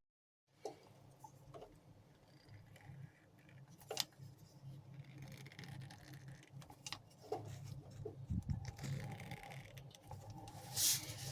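Faint rubbing and scattered small clicks from handling a tube of CT1 sealant being squeezed out, over a low steady hum, with a short hiss near the end.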